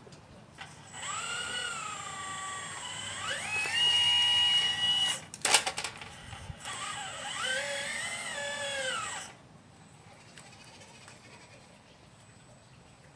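Electric motors of a 1/12-scale RC Liebherr 954 excavator whining as the machine is worked, the pitch rising, holding and falling with a few clicks midway. The whine stops about nine seconds in.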